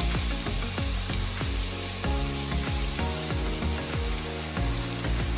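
Grated bottle gourd sizzling as it fries in hot ghee in a kadhai, over background music with a steady beat.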